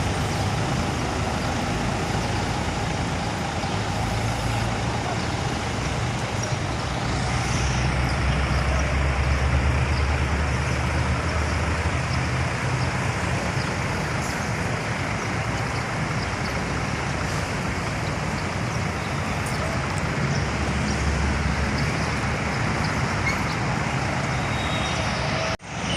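Diesel engine of a Scania K360IB coach running with a steady low hum, swelling louder twice, over constant traffic noise. The sound drops out briefly near the end.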